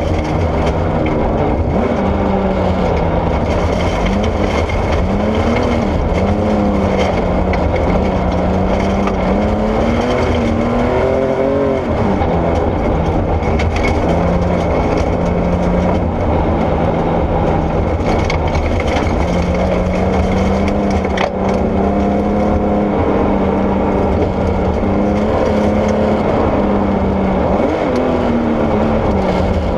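Porsche 964 rally car's air-cooled flat-six under hard driving on gravel, the revs climbing and dropping again and again through gear changes over a steady low rumble of tyres on gravel. One sharp knock about two-thirds of the way through.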